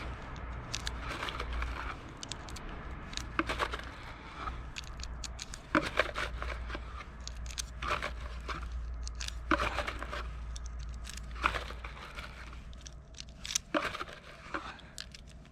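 Loose .22 LR cartridges handled and pushed one at a time into a Glock 44 magazine, a small sharp click every second or two as each round seats, with rustling between.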